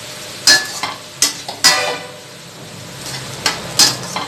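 A ladle scraping and clanking against a kadai as egg, onion and cabbage are stir-fried in hot oil, with steady sizzling underneath. About six sharp metallic clanks, a couple of them ringing briefly.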